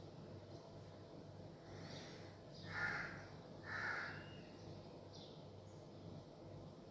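Two loud, harsh bird calls about a second apart near the middle, over fainter high chirps repeating and a steady low background hum.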